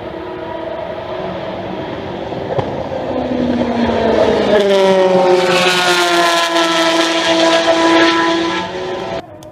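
Race car engine approaching and passing close by at speed; it grows louder, then its note falls in pitch as it goes past. The sound cuts off abruptly just before the end.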